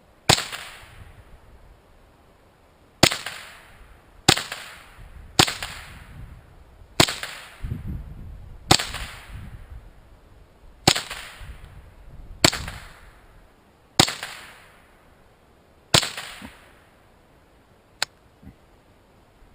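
Remington Nylon 66 .22 LR semi-automatic rifle fired ten times at an uneven pace, one shot every one to two seconds, each crack followed by a short echo, then a small sharp click near the end. The rifle is feeding and firing every round after its cartridge guide spring was replaced.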